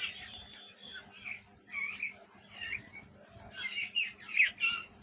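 Pet parrot chirping, a quick run of short calls and squeaky glides that gets louder about four seconds in.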